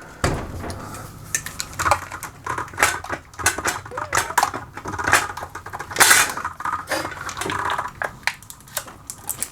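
Rexel LV250HS laminator switched on, its roller motor giving a low hum, while a jammed, glued laminating pouch is pulled out through the rollers with irregular clicks and crackles, the loudest about six seconds in.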